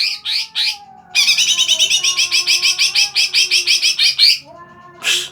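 Greater green leafbird (cucak ijo) in full chattering song. It gives three quick rising whistles, then a fast run of notes at about seven a second for some three seconds, and one sharp note near the end.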